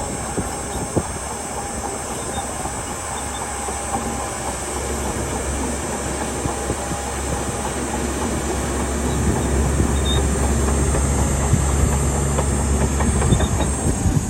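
Crawler bulldozer's diesel engine running with the steady clatter of its steel tracks; the engine grows louder about nine seconds in.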